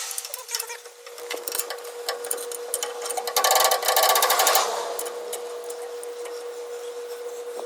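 Metal clicks, taps and rattles of hand tools working on a truck's rear axle during removal of the differential carrier, with a louder burst of rapid rattling in the middle, over a steady thin whine.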